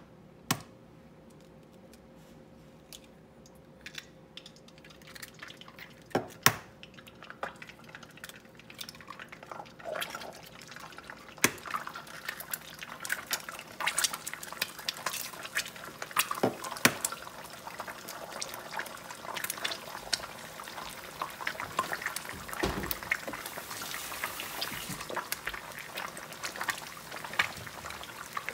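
Eggs cracked into hot oil in a stainless steel frying pan: a few sharp knocks at first, then the oil sizzling with many small pops, getting denser and louder from about a third of the way in as more eggs go in.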